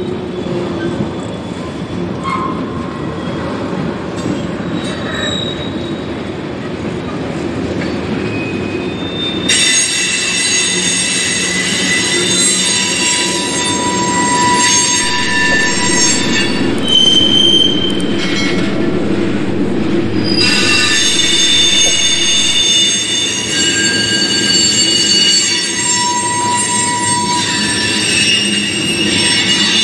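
Freight train cars rolling past with a steady rumble of wheels on rail. About a third of the way in, high-pitched wheel squeal joins, several shrill notes at once; it eases briefly about two-thirds through, then comes back louder to the end.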